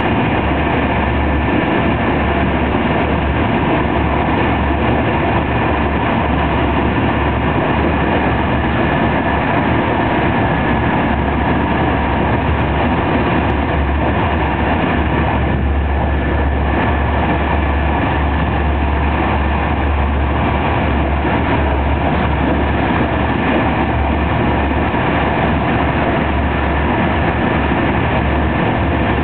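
TER 200 regional express train running at speed, heard from inside the passenger coach: a steady, loud rolling noise of wheels on rail with a low rumble underneath.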